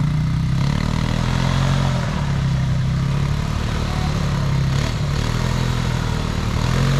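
Small dirt bike engine running steadily, its pitch dipping and rising a little with the throttle.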